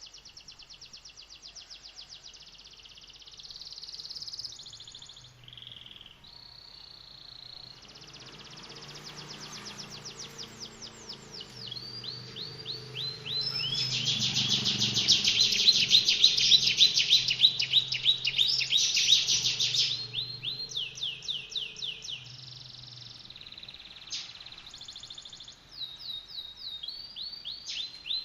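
Songbird song from a masteran (bird-song tutor) recording: harsh, fast rattling trills of repeated sharp notes, the rapid-fire 'tembakan' style. The bird sings in runs that pause briefly, and it is loudest about halfway through.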